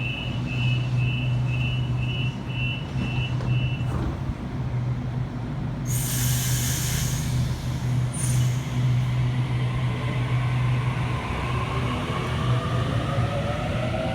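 Sydney Trains Waratah electric train at the platform, door-closing beeps sounding about twice a second for the first few seconds over a steady low hum. Two loud air hisses follow about six and eight seconds in, and from about ten seconds the traction motors' whine rises in pitch as the train pulls away.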